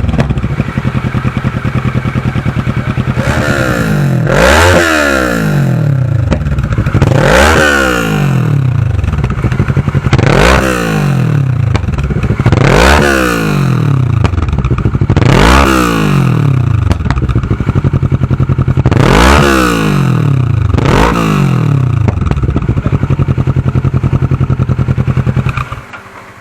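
Kawasaki ER-6's parallel-twin engine breathing through an aftermarket Akrapovic full exhaust system, idling and blipped seven times, each rev rising and dropping back to idle a few seconds apart, before the sound cuts off near the end.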